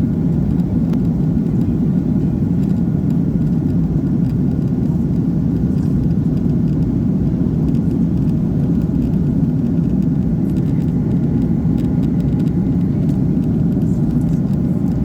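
Steady, loud low rumble of cabin noise inside a vehicle in motion.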